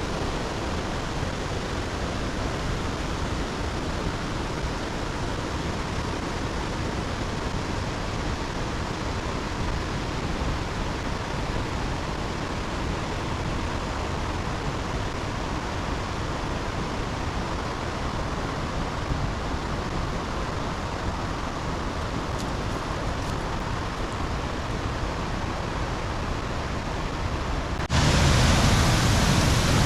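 Steady rush of a fast-flowing river and waterfall. Near the end it cuts suddenly to a louder, fuller rush of water.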